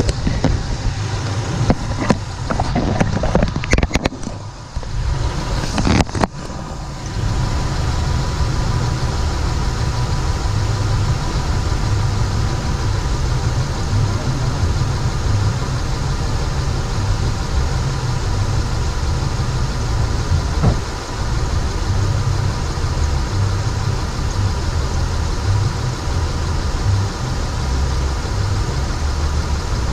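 Honda Pilot V6 engine running, with knocks and handling noises in the first several seconds, then a steady run with a thin, steady squeal from the accessory drive belt. The owner first blames the belt itself, then suspects a worn tensioner or a lower pulley.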